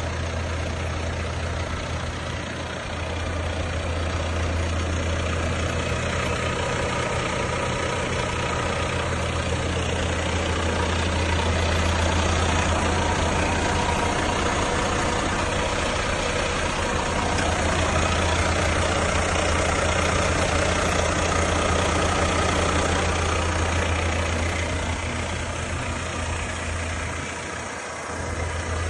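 Volvo FH 500 truck's 13-litre six-cylinder diesel engine idling steadily.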